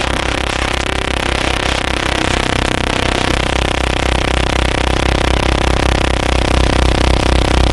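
Noise music: a dense, droning wall of distorted sound with many sustained tones stacked over a fast throbbing low pulse.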